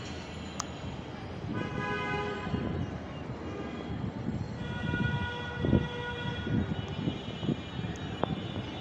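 A horn sounding two long, steady blasts, the second longer, with a few low thumps during the second blast.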